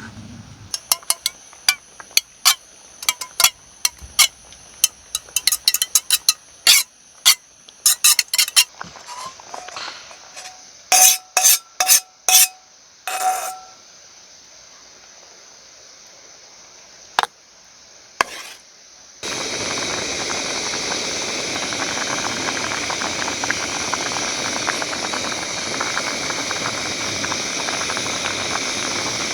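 Metal cooking utensils clinking and tapping against a pot and dishes, many quick clinks, a few of them ringing briefly. About two-thirds of the way in, a steady hiss of a pot of soup boiling starts abruptly and carries on.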